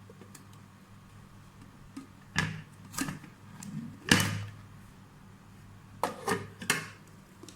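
Knocks and clatters of mixer-grinder jars, lids and motor unit being handled and set down on a counter: about six separate knocks, the loudest about four seconds in, and a quick run of three near the end.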